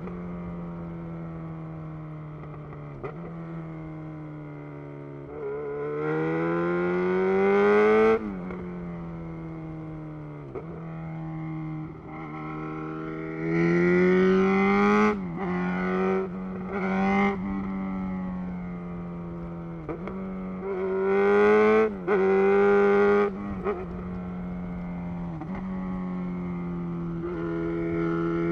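Yamaha XJ6 inline-four motorcycle engine through a loud Black Widow full exhaust, ridden on the road. It holds a steady cruising note, and several times the throttle opens so the exhaust grows louder and rises in pitch, then drops off sharply as the throttle closes or the gear changes.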